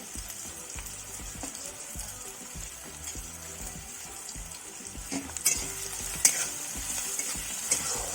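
Onions, green chilies and whole spices sizzling in hot oil in a kadai, a steady hiss that grows louder about halfway through. A spatula stirs them, with a few sharp scrapes or knocks against the pan near the end.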